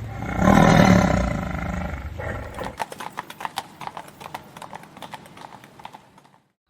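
A horse makes a loud call lasting about two seconds, then its hooves clip-clop in quick, irregular steps that fade away near the end.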